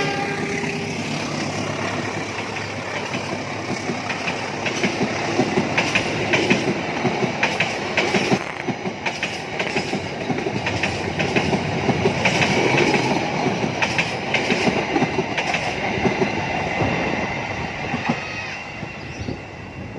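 Departing passenger train running past, its wheels clacking over rail joints in an irregular rhythm over a steady rumble, fading near the end. The tail of a horn blast dies away in the first second.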